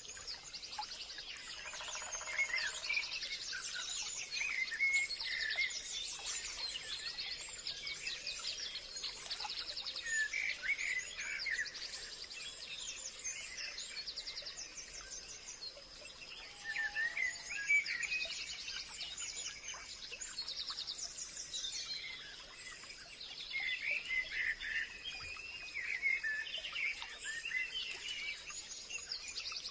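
Forest birdsong: several birds chirping and trilling at once, over a steady thin high-pitched tone.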